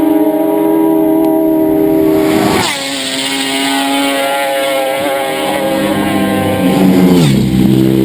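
Racing motorcycles at full speed passing close by, one after another. Each engine's high, steady note drops sharply in pitch as it goes past, first about two and a half seconds in and again near the end.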